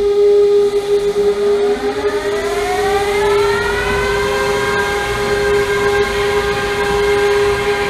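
Christ Varius car wash gantry running, with a steady whine from its machinery. A motor whine rises in pitch over about three and a half seconds, then holds steady as the motor reaches speed.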